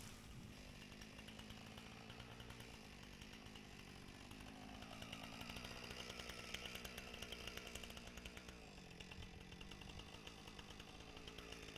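Husqvarna 455 Rancher two-stroke chainsaw running faintly and steadily, its pitch dipping briefly and recovering about nine seconds in.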